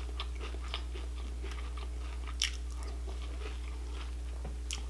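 A person chewing a mouthful of Honey Bunches of Oats cereal in milk, close to the microphone: soft, irregular crunches, one a little louder about two and a half seconds in, over a steady low hum.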